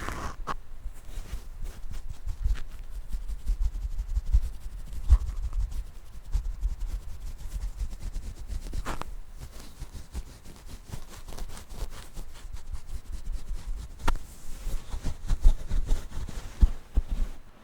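Continuous scratching and rubbing directly on a microphone, picked up as heavy low rumbling thumps with fine scratchy ticks, and a few sharper taps.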